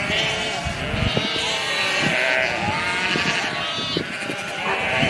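Sheep bleating, several calls overlapping.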